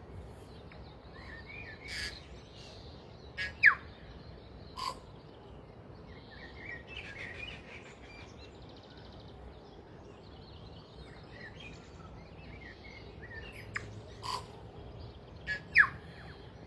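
Birds calling in the bush: scattered short chirps and chatter, with two loud, quick downward-sweeping whistles, one a few seconds in and one near the end, over a steady background hiss.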